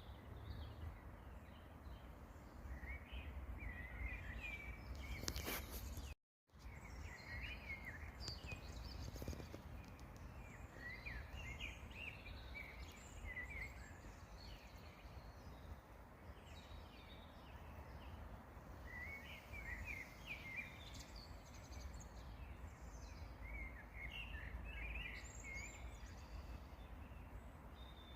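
Songbirds singing in short twittering phrases, coming in several separate bursts, over a steady low rumble of outdoor background noise. The audio drops out completely for a moment about six seconds in.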